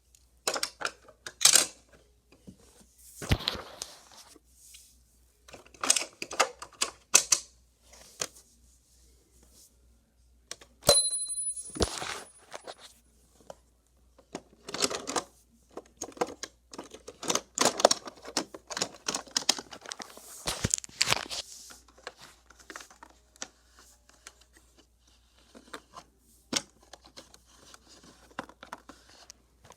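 Die-cast toy cars and a plastic Hot Wheels playset clicking, rattling and clattering as they are handled and pushed around, in irregular bursts with short pauses between.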